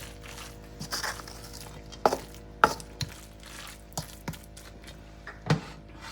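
Kitchen utensils knocking and clattering against cookware, about seven sharp irregular knocks, the loudest about two and a half seconds in.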